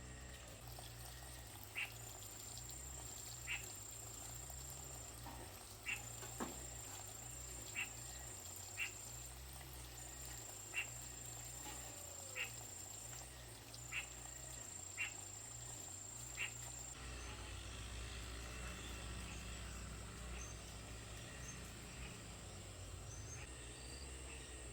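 Quiet countryside ambience of animal sounds: short high chirps every second or two, over a very high steady buzz that runs in stretches of about three seconds and stops about two-thirds of the way through. A low hum lies underneath.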